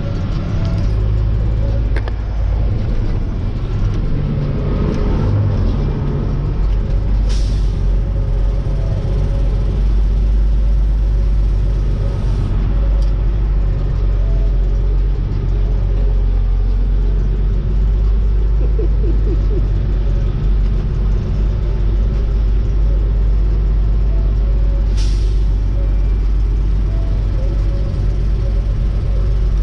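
Heavy diesel dump truck on the road, a loud, steady low engine and road rumble, with two short hisses of air about 7 and 25 seconds in, typical of the truck's air brakes.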